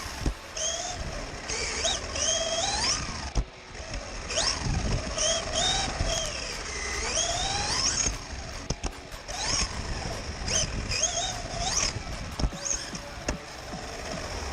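Electric motor of a radio-controlled car whining, its pitch rising and falling again and again as the throttle is worked.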